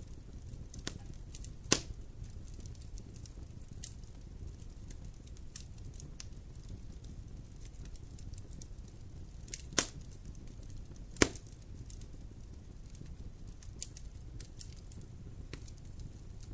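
Wood fire crackling in a fireplace: scattered small crackles over a low, steady rumble of flame. There are three louder sharp pops, one about two seconds in and two close together about ten seconds in.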